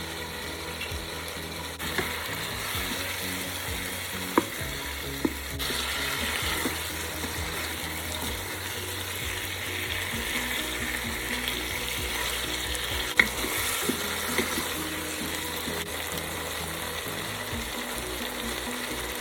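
Chicken curry masala sizzling and frying in the Ninja Foodi's pot on sauté mode while it is stirred, with a few sharp knocks of the spoon against the pot.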